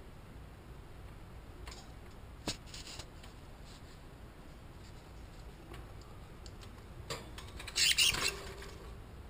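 Small pet birds moving about: a sharp tap about two and a half seconds in, a few faint ticks, and a short scratchy rustle near the end, the loudest sound.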